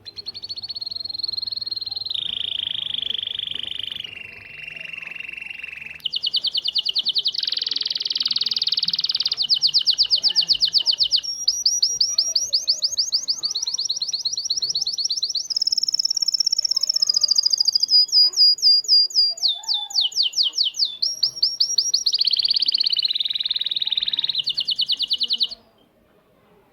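Syrian baladi canary singing a long, varied song: a run of trills and rolls that switches pitch and speed every few seconds, some sections of fast rapid notes, others smoother rolling tones. The song cuts off suddenly near the end.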